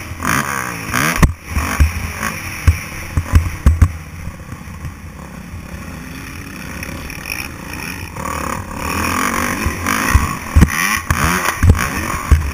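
Motocross dirt bike engine revving, its pitch rising and falling, with many sharp low thumps and knocks. It eases off for a few seconds in the middle, then revs hard again.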